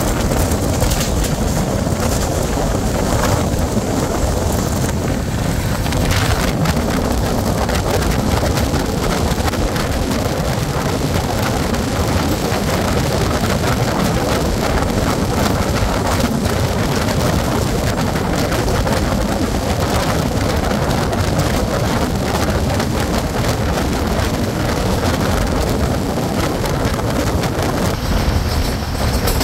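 Passenger train running at speed: a steady rumble and rush of air, with wind buffeting the microphone.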